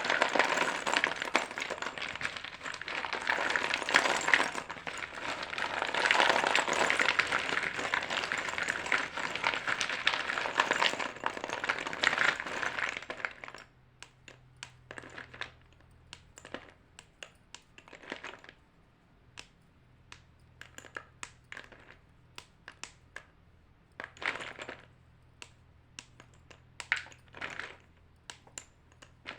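White chalk being crunched: a dense, continuous crunching for about the first thirteen seconds, then scattered small cracks and clicks.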